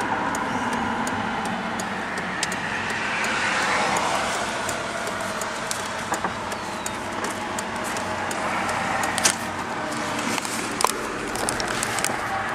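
Steady road and engine noise heard from inside a moving vehicle, with frequent small clicks throughout.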